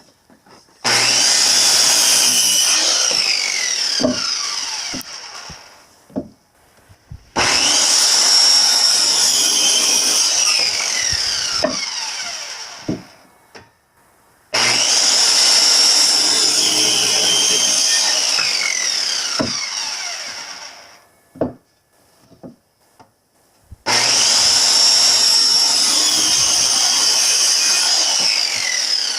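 Electric power saw cutting wood four times. Each run starts abruptly with a high motor whine and then winds down with a falling pitch over a few seconds, with brief pauses and a few knocks between cuts.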